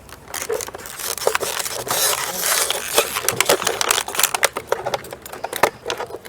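Plastic being crinkled and crushed by hand, a dense run of crackles and sharp clicks that is thickest about two to three seconds in.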